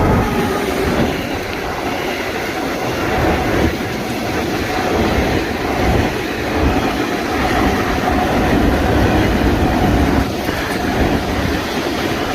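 Freight train of about 20 wagons behind an electric locomotive rolling past close by, the wagons' wheels clattering over the rail joints in a steady run.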